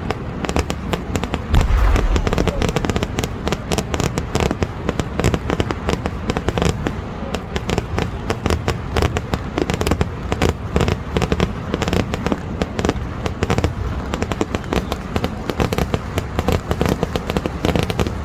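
Kerala temple-festival vedikettu fireworks: a dense, rapid, unbroken barrage of firecracker bangs, with a heavier boom about a second and a half in.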